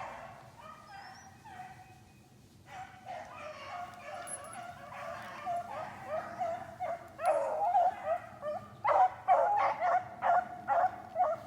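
A pack of rabbit-running dogs baying and barking while they work a rabbit's trail. The voices are faint at first, then grow louder and come thick and fast from about seven seconds in.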